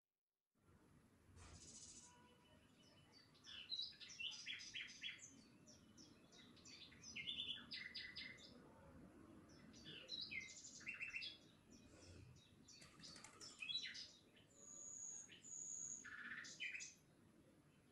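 A faint chorus of small birds chirping, with quick runs of short, repeated chirps from several birds at once; the sound cuts in about half a second in after dead silence.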